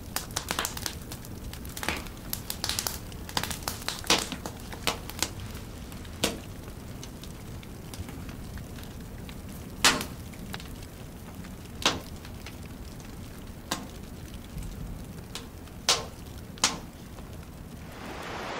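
Alder wood fire in a fish smokehouse, crackling with irregular sharp pops over a low steady hiss; a few pops stand out louder.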